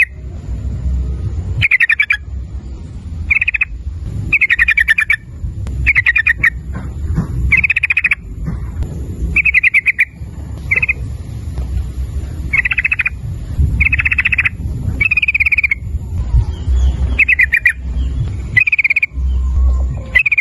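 Yellow-vented bulbul (trucukan) singing: short warbled phrases repeated about once every second or so, over a steady low rumble.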